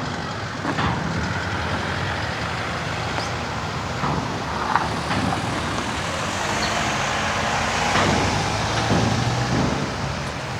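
Road vehicles driving slowly past, engines running over steady tyre noise. A deeper engine hum grows stronger about eight seconds in.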